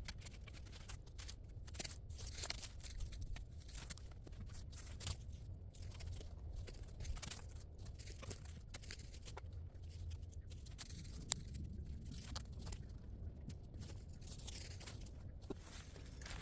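Irregular rustling and crunching over a steady low rumble, with one sharp click about eleven seconds in.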